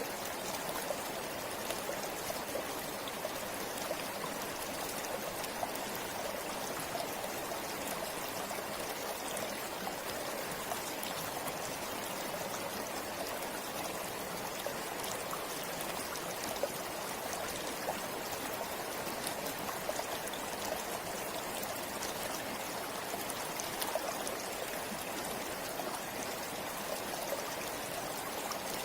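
Steady rushing and trickling of a shallow river over stones, with fine splashes and bubbling.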